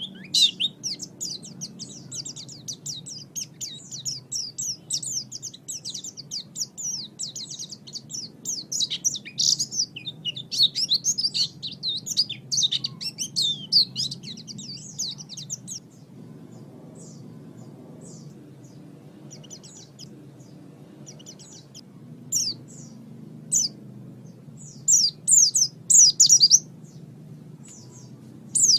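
White-eye (pleci) singing a fast, continuous high twittering song; about halfway through it thins to scattered short notes, with a few louder bursts of twittering near the end. A faint low steady hum lies underneath.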